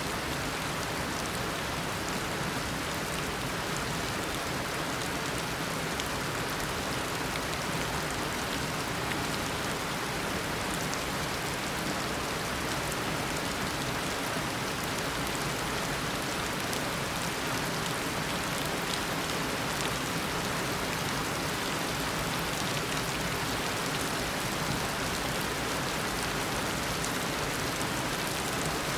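Heavy, steady tropical downpour: dense rain falling and pattering on surfaces, with scattered individual drops ticking through the steady hiss.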